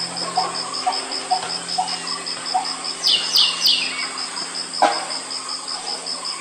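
Malabar barbet giving its repeated low 'tuk' call about twice a second, fading out about halfway, over an insect's steady high pulsing trill. A few quick high notes from another bird come about three seconds in.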